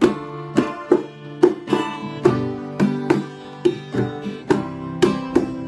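Instrumental intro of a folk song played on a plucked string instrument, picked note by note at a steady pace of about two notes a second, each note ringing on.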